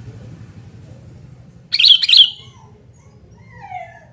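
Sooty-headed bulbul (kutilang) calling: a loud burst of two or three sharp chirping notes about two seconds in, followed by fainter falling whistled notes near the end, over a low steady hum.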